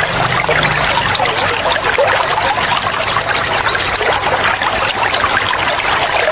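Running water splashing and trickling steadily, with small birds chirping high over it, a short run of calls about halfway through.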